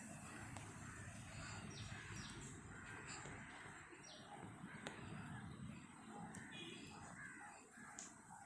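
Faint outdoor birdsong: many short bird calls and chirps scattered over a steady background hiss, with a quick run of repeated notes near the end.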